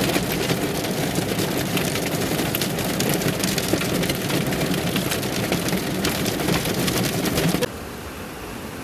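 Heavy rain pouring down: a dense hiss full of sharp drop impacts. Near the end it cuts off abruptly to a quieter, steady hiss.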